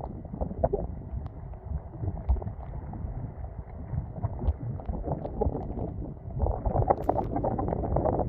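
Storm-force gusty wind buffeting the microphone as a deep, rumbling rush with crackles and knocks, growing stronger about two-thirds of the way through.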